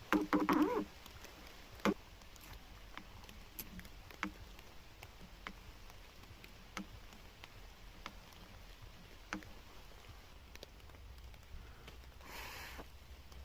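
Sparse light ticks and drips, one every second or so, typical of rainwater dripping in a wet forest. A short wavering whine-like call sounds at the very start, and a brief rustle comes about a second before the end.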